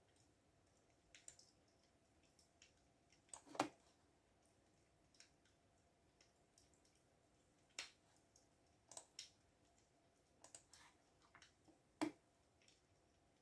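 Computer keyboard keys pressed in slow, irregular taps: a dozen or so scattered clicks, two sharper ones standing out, over a faint steady room hum.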